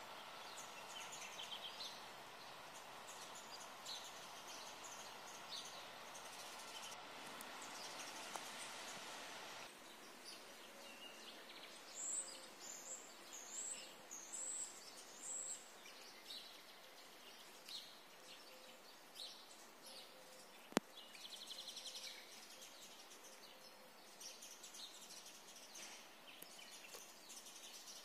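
Faint outdoor ambience with small birds calling: a steady rushing hiss for the first ten seconds that cuts off abruptly, then a run of about five high chirps near the middle, scattered calls and a short trill. One sharp click about two-thirds of the way in is the loudest moment.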